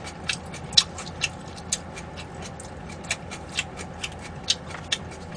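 Chewing food close to the microphone: a string of short, wet mouth clicks and smacks, about two or three a second, at an uneven pace.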